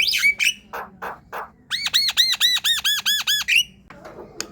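Javan myna (jalak kebo) singing: harsh squawks, then a fast run of about a dozen repeated arched whistled notes, about six a second, then softer rough chatter near the end.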